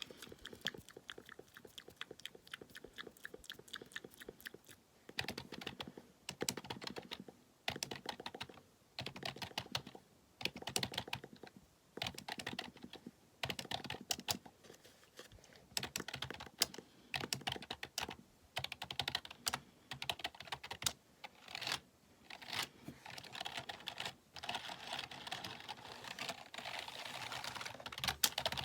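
Computer keyboard typed close to the microphone: bursts of rapid clacking keystrokes with short pauses between them. The typing becomes denser and nearly continuous in the last few seconds.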